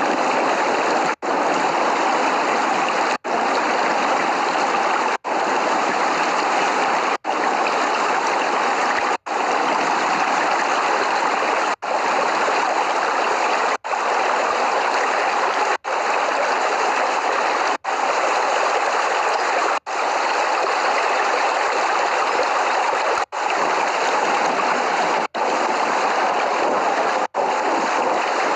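Steady, heavy rain hiss that cuts out for a split second about every two seconds, as if a short recording were looped with gaps.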